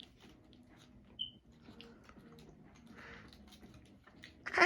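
Faint chewing of a milk-chocolate stick filled with cream and popping candies, with small clicks and crackles. A short, louder burst of noise comes near the end.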